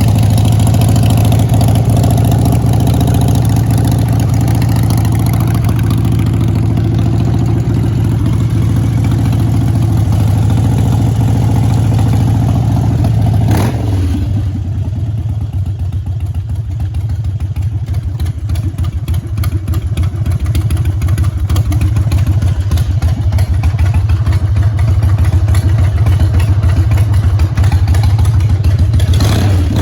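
A 2001 Harley-Davidson Dyna Super Glide's Twin Cam 88 V-twin running at a steady idle. About halfway through it drops to a slower, lumpier idle with distinct loping beats.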